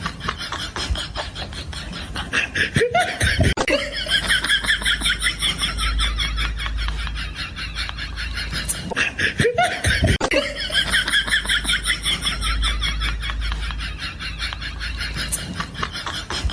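Laughter, a long run of rapid chuckling. The same stretch of laughter is heard twice, starting again about halfway through, like a laugh sound bite played in a loop.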